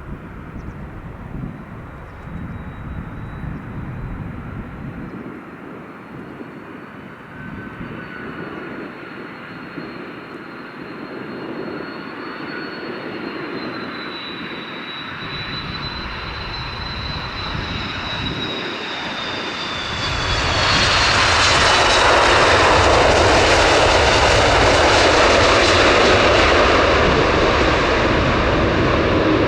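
Large jet airliner's turbofan engines: a high fan whine grows louder and slides lower in pitch. About twenty seconds in, a much louder, broad roar sets in and holds.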